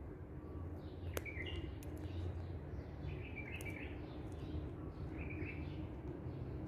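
A parrot giving a few short, high chirps over a steady low background hum.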